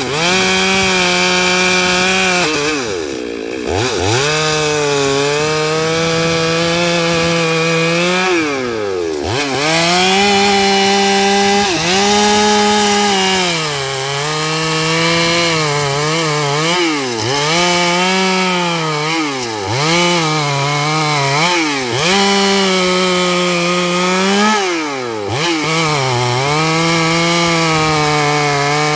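Stihl 382 two-stroke chainsaw cutting eucalyptus logs: held at full revs, its pitch sags under load in the cut and recovers. The throttle is let off and opened again about nine times, the revs falling away and rising back between cuts.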